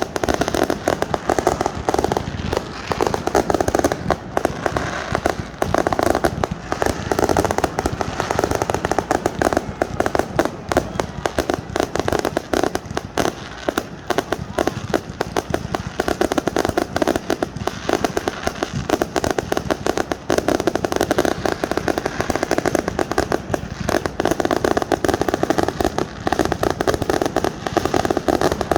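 Fireworks display: a continuous barrage of bangs and crackling with no pauses.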